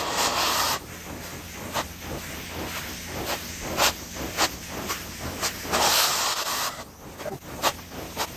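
Carpet-cleaning vacuum hose hissing as it sucks air, with many short sharp bursts and two longer rushes, one right at the start and one about six seconds in.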